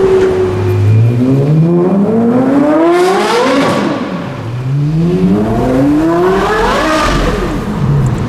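Porsche Carrera GT's 5.7-litre V10 with a GMG straight-through exhaust, revving hard: the loud, high wail climbs steeply in pitch twice, dropping back after each climb.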